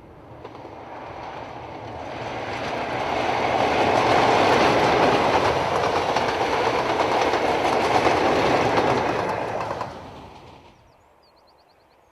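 Train hauled by a Class 47 diesel locomotive passing at speed: the noise builds over a few seconds, holds loud, then falls away quickly as the train clears, about ten seconds in.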